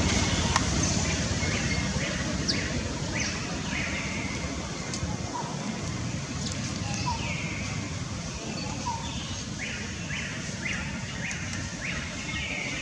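Outdoor forest ambience: a bird calling again and again in short, high, falling notes, in loose runs, over a steady low rumble.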